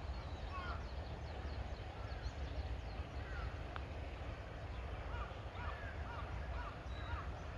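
Wild birds calling in the early morning: scattered short chirps, then a run of regular arched calls about twice a second from about two-thirds of the way through, over a steady low rumble.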